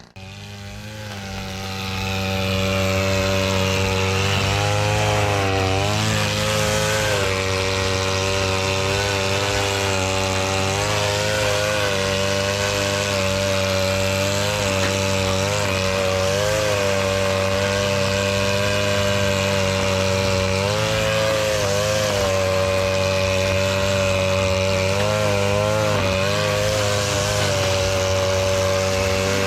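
Small engine running steadily at high speed, its pitch dipping briefly now and then as it takes load.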